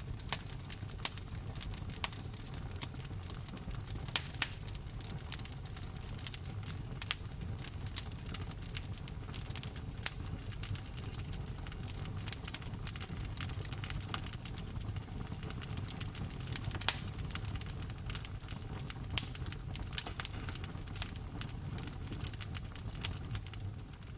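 Wood fire crackling: many irregular sharp pops and snaps over a steady low rumble of burning logs.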